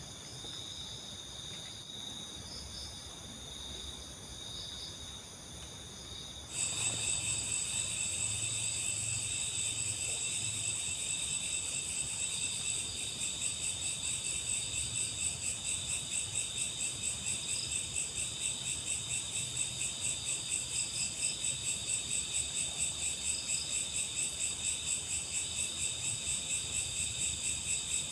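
Crickets and other night insects trilling steadily in high-pitched layers. About six and a half seconds in the chorus suddenly becomes louder and fuller, and later it pulses a few times a second.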